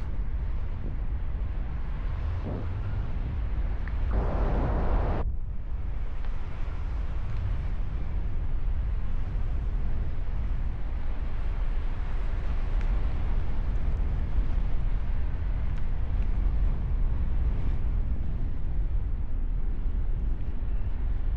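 Wind buffeting the microphone, a steady low rumble. A louder rush of noise about four seconds in cuts off abruptly about a second later.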